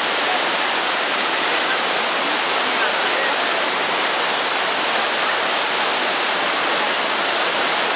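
Manalsu mountain river rushing past: a steady, unbroken hiss of fast-flowing water.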